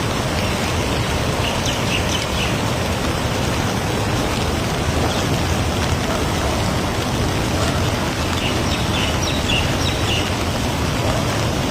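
A river swollen by heavy rain, its water flowing fast with a steady rushing sound.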